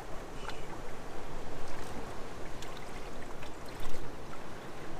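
Seawater washing and trickling among shoreline rocks: a steady rushing with a few small clicks, and a brief louder surge about four seconds in.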